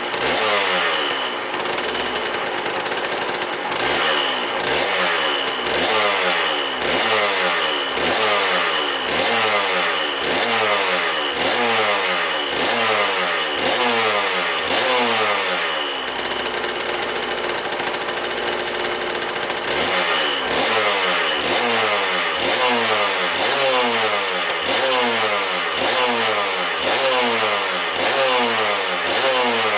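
Aprilia RS 125's Rotax 122 single-cylinder two-stroke engine, freshly rebuilt and warming up, revved in quick throttle blips about once a second, each rev dropping straight back. Midway it runs steadily for a few seconds before the blipping resumes.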